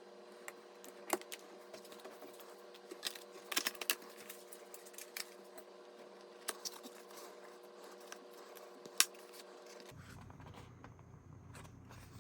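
Scattered small clicks and taps of computer parts and packaging being handled, a cluster of them about three to four seconds in and one sharper click near nine seconds, over a steady low hum. About ten seconds in, the hum changes abruptly to a lower rumble.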